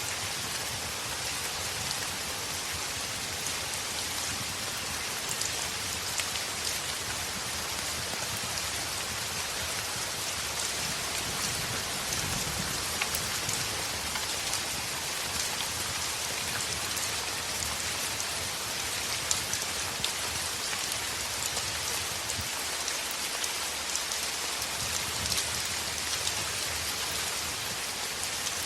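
Heavy rain on a window: a steady hiss with many small sharp ticks scattered through it.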